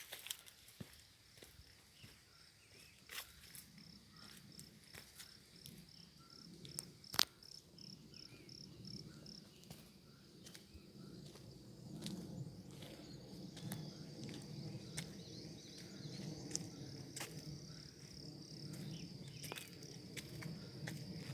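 An insect, likely a cricket, trilling in one steady high note, broken into quick pulses for a couple of seconds and then continuous. There are scattered light clicks, a sharp one about seven seconds in, and a low hum grows in about halfway through.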